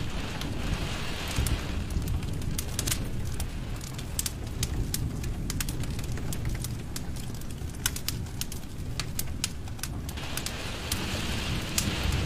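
Wood fire in a fireplace crackling, with frequent sharp pops over a low steady rumble of the flames. A soft hiss swells briefly near the start and again near the end.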